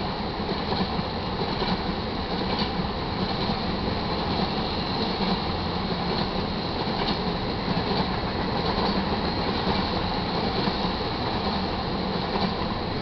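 Freight train of tank cars rolling past a grade crossing: a steady rumble and rattle of steel wheels on the rails, with faint regular clicks.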